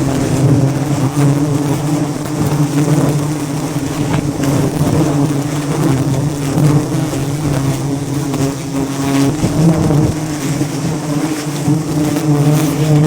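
Swarm of wild honeybees buzzing in a loud, steady drone.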